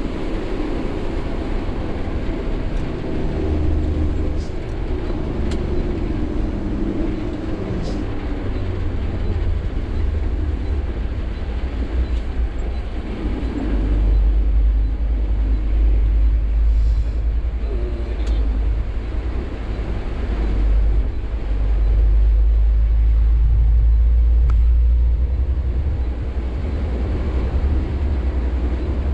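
Sany 6x4 dump truck's diesel engine and drivetrain running as the truck drives, a steady low rumble. It grows louder about halfway through and is loudest for a few seconds after that.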